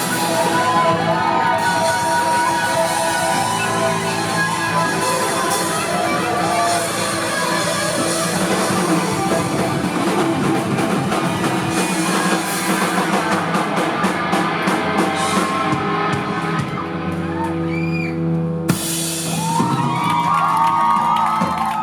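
Live rock band playing loudly in a club, with drum kit and electric guitars. Near the end the song breaks off and the crowd cheers and shouts.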